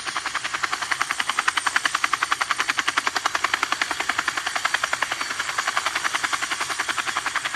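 Helicopter rotor chopping sound from a toy helicopter: fast, even beats at about a dozen a second, holding steady.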